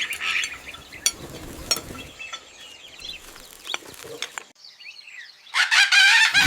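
Light clinks of cutlery and dishes scattered over the first few seconds, then, after a short pause, a loud warbling bird call near the end.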